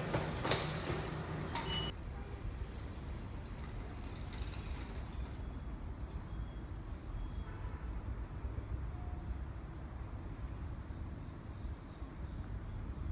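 A pitched sound with several steady notes cuts off abruptly about two seconds in. After that, insects trill steadily on one high note over a low rumble.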